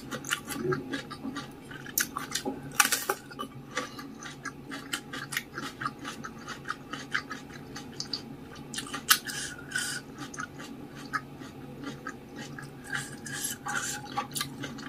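Close-miked eating: chewing of saucy noodles and rice, with many small irregular mouth clicks and smacks and an occasional clink of cutlery, over a faint steady low hum.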